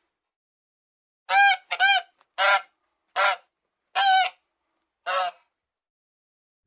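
Goose honking: six short honks in a row, starting about a second in.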